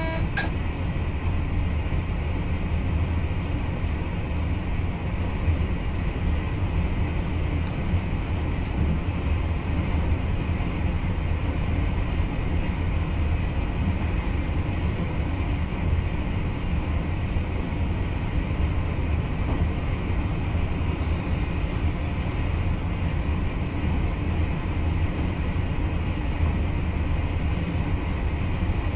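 Steady running noise of a VIRM double-deck electric train heard inside the driver's cab while under way: an even low rumble of wheels on rail and traction gear that holds unchanged throughout.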